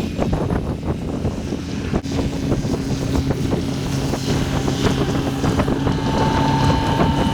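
A vehicle engine running with heavy wind noise on the microphone and rattling; a steady engine hum becomes clear about two seconds in.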